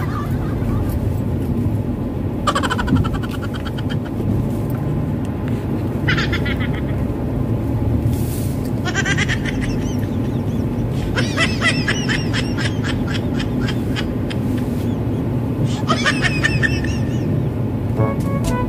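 Steady engine and road noise inside a moving car. About five short buzzy calls or cries cut in over it, and music with held notes comes in near the end.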